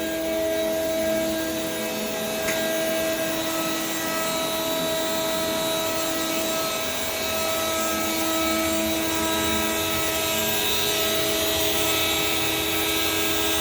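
CNC router table at work: the router spindle and stepper motors whine in several steady pitches that drop out and return as the axes move, over the steady rush of the half-horse dust-collection blower.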